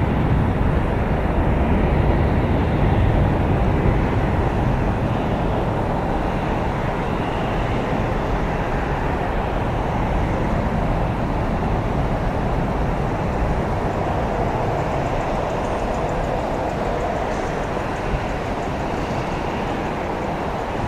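Boeing 767-300ER's twin jet engines at takeoff power, a steady deep rumble that slowly fades as the airliner climbs away.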